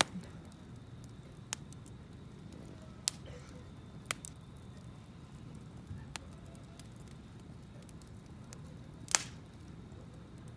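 Wood campfire burning: a low, steady rustle of flames with sharp, irregular pops and crackles from the burning wood, about one every second or two, the loudest snap about nine seconds in.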